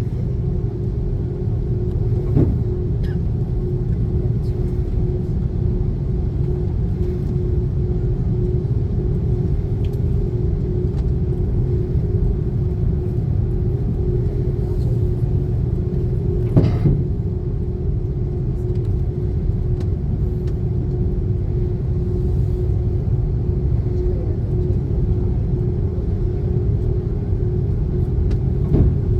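Cabin noise inside an Airbus A330-300 airliner: a steady, loud engine and airflow rumble with a constant hum, broken by two faint knocks.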